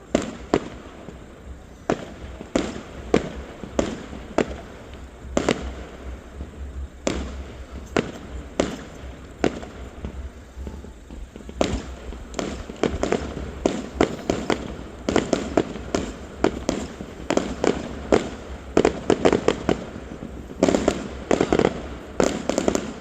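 Fireworks display going off: a string of sharp bangs at irregular intervals, coming faster in the second half, with a quick run of bangs near the end.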